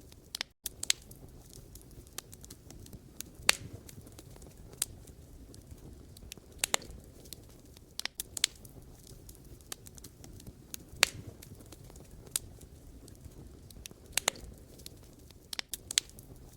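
Wood fire crackling: irregular sharp pops and snaps from burning logs over a soft low rumble of the flames, the loudest pops about three and a half and eleven seconds in. The sound cuts out for an instant about half a second in.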